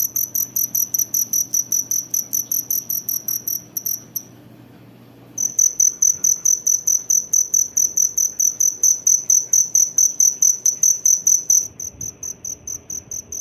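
Cricket chirping loudly in a rapid, even train of high-pitched pulses, about six a second. It stops for about a second about four seconds in, then resumes, going softer near the end.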